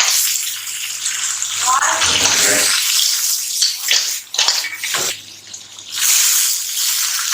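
Tap water running and splashing as freshly gathered lingula (sea bean sprouts) are rinsed; the water sound drops away for about a second near five seconds in, then comes back.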